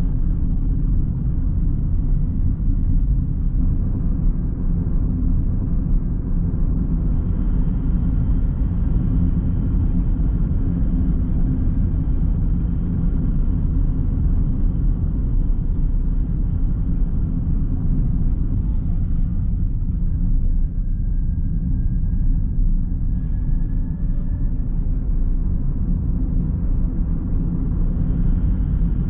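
Car driving at a steady pace: a continuous low rumble of road and engine noise, with a faint thin whine rising slightly about three-quarters of the way through.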